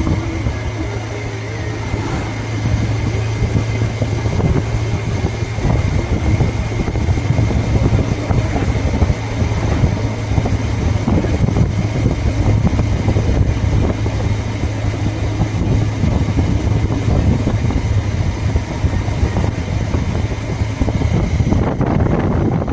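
Motorcycle engine running steadily while riding, a constant low hum under a broad rushing noise.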